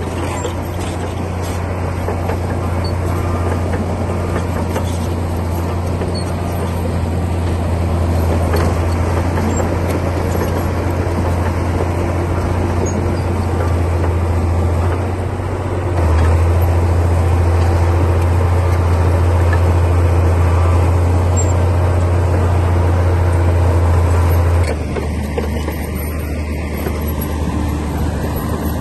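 Bulldozer's diesel engine running steadily under load, with a deep drone. It gets louder about sixteen seconds in, then eases back down near the end.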